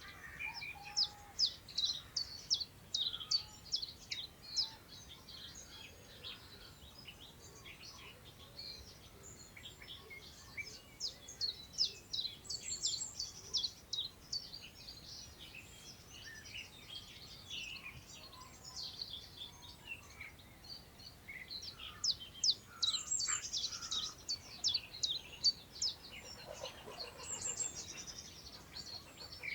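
Songbirds singing in a countryside meadow, in bouts of quick, high chirping notes that come and go, with the loudest runs about a second in, around ten seconds in and around twenty-two seconds in. A soft, steady hiss of wind through long grass lies underneath.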